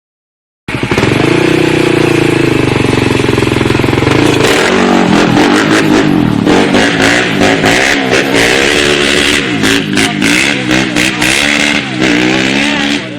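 Motorcycle engine, loud, coming in abruptly under a second in and holding a fairly steady note for a few seconds, then revving up and down repeatedly.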